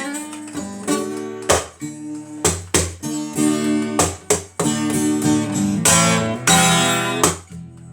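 Acoustic guitar strumming chords with sharp, uneven strokes, as an instrumental gap between the sung lines of a song.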